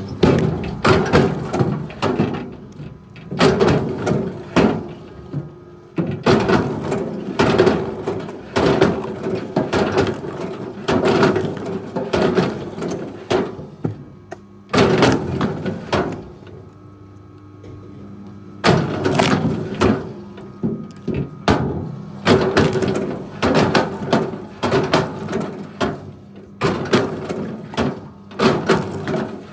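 A steady engine hum under irregular clunks and creaks, with a quieter lull about halfway through.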